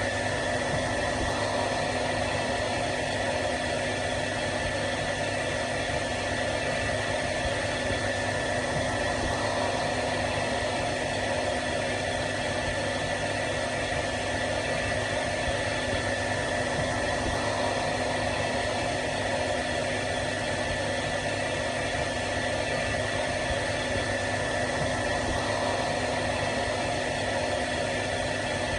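Hair dryer running continuously, a steady airy whoosh with a constant motor hum and whine that does not change.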